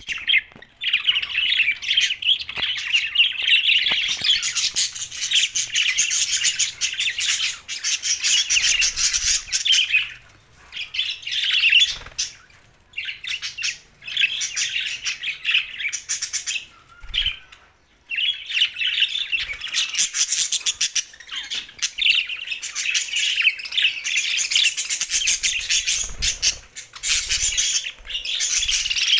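Budgerigars chirping and warbling in fast, dense chatter, with a few short lulls and one longer pause about halfway through.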